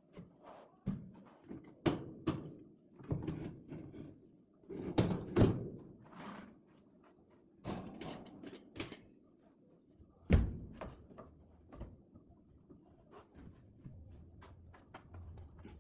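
Split oak firewood logs knocking and clunking against one another as they are stacked, in an irregular run of thuds with one sharp knock about ten seconds in.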